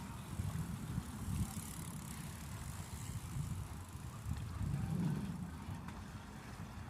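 Wind buffeting the microphone: a low, uneven rumble that swells briefly about five seconds in.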